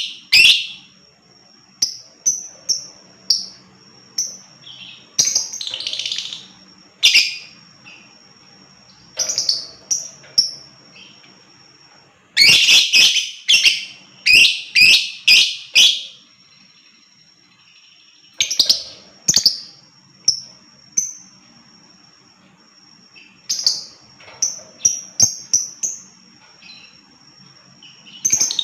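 Lovebird calling in sharp, high chirps that come in separate clusters, with a dense run of rapid chattering calls from about twelve to sixteen seconds in.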